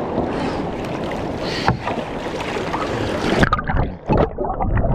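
Loud rushing of river whitewater around a swimmer who has ejected from a capsized kayak. About three and a half seconds in the steady rush cuts off, and a run of separate splashes follows.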